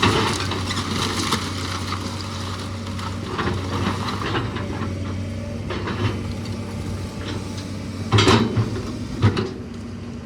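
A machine's engine running steadily while a house is torn down: wood and debris crack and clatter throughout, with loud crashes about eight seconds in and again about a second later.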